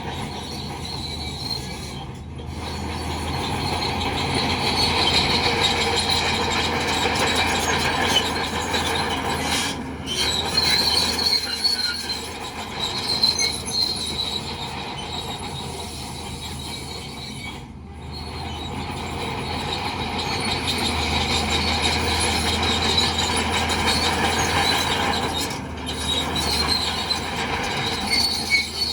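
Crawler bulldozer working: diesel engine running with the high squeal and clatter of its steel tracks, rising and easing as it pushes. The sound breaks off briefly about every eight seconds.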